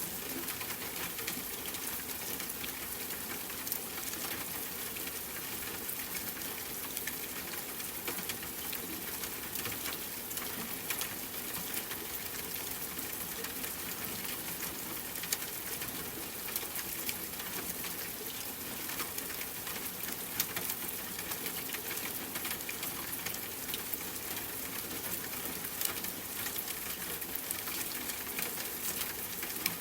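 Steady rain: an even hiss of falling rain with frequent small taps of individual drops.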